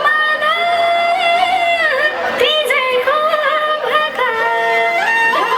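Nepali Teej song playing: a woman's high voice holds long, ornamented notes that bend and slide, over instrumental accompaniment.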